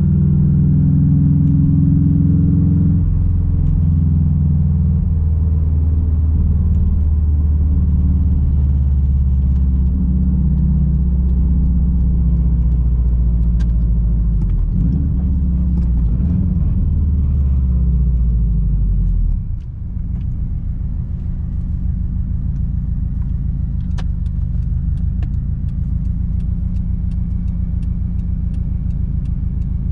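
Straight-piped 2006 Subaru WRX STI's turbocharged 2.5-litre flat-four exhaust rumbling while driving. It holds steady for about twenty seconds, dips briefly, then settles into a lower, steady burble with a run of faint, evenly spaced clicks.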